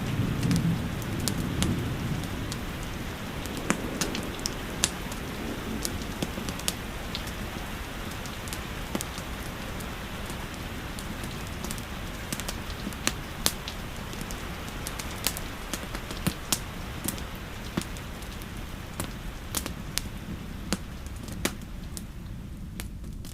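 Steady rain hiss with a wood fire crackling, its sharp pops scattered irregularly through it. A low thunder rumble dies away in the first couple of seconds.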